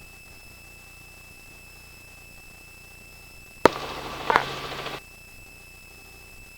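Helicopter intercom audio with the rotor noise shut out: a low hiss under a faint, steady high-pitched tone. Nearly four seconds in, a microphone keys open for just over a second and lets in a burst of noise, which starts with a click and cuts off sharply.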